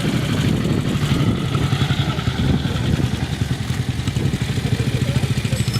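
Vehicle engine running close by at a steady idle, with a fast even beat of firing pulses.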